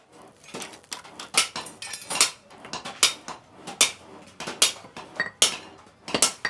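Blacksmith's hammer striking metal on an anvil: a steady rhythm of loud ringing blows about every 0.8 s, with lighter taps in between.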